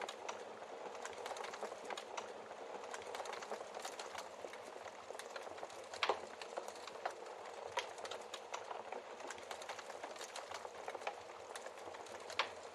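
Wood fire crackling with a steady hiss and many small pops, with a few louder pops: the loudest about six seconds in and another near the end.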